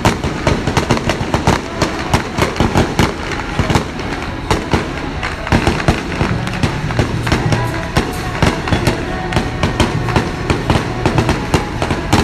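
Firecrackers going off in a dense run of rapid, irregular sharp pops, with music playing underneath.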